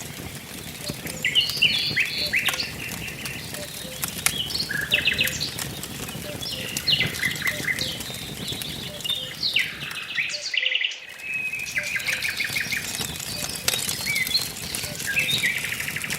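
Wood fire crackling with scattered small pops, under several birds chirping and trilling. The sound drops out briefly about two-thirds of the way through.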